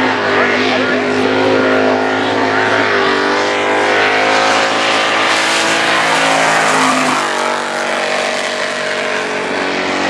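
Supercharged V8 held at high revs through a burnout, with the wheels spinning and the tyres smoking. The engine note stays steady, wavers and dips briefly a few times, over the hiss of the spinning tyres.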